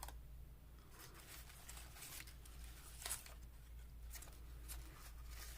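Faint rustling and light taps of paper cutouts being handled and set down on a table, a scattering of short soft sounds with the clearest about three seconds in, over a low steady hum.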